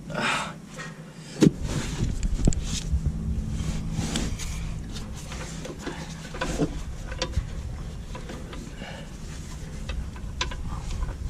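Scattered knocks and clicks of tools and parts being handled during work on a truck's gearbox, with one sharp knock about one and a half seconds in, over a low steady rumble.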